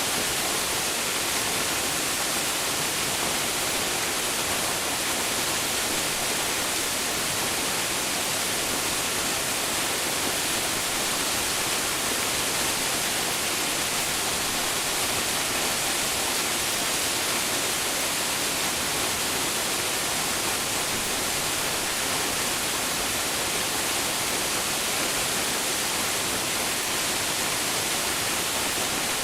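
Waterfall: a steady, unbroken rush of falling water, strongest in the hiss of the upper range.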